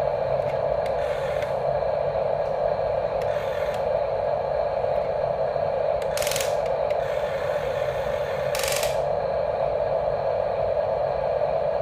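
Small electric gear motors of radio-controlled construction models running with a steady gear whir, broken by two brief hissing bursts about six and eight and a half seconds in.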